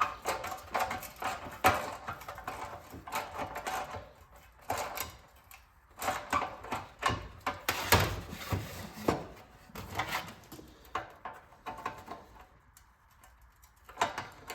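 Hand tools clicking and clanking against the metal of a small engine as bolts are worked loose: an irregular run of knocks and rattles, busiest in the first few seconds and around the middle, thinning out near the end.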